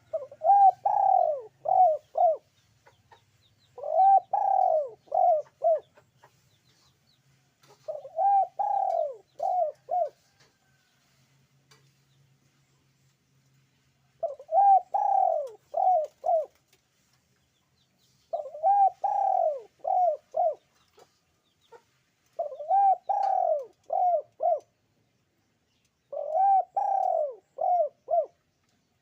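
Puter pelung (ringneck dove) cooing: seven phrases, each a longer coo followed by two or three short ones, repeated roughly every four seconds with one longer pause about a third of the way in.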